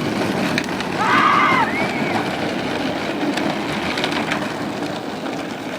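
Small wheels rolling over pavement with a steady rough rumble that slowly fades, a brief high-pitched vocal cry about a second in and a few light clicks.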